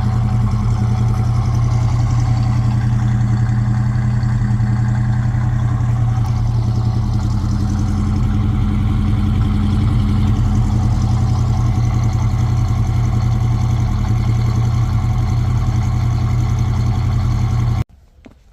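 Built 350 cubic-inch V8 with a mild cam, running through new 2.5-inch dual exhaust, idling steadily. The sound cuts off abruptly near the end.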